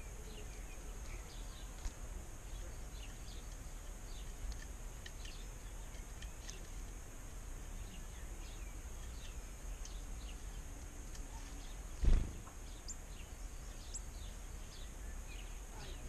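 Small garden birds giving many short, high chirps and calls, faint over a steady low background rumble. One dull thump about three-quarters of the way through.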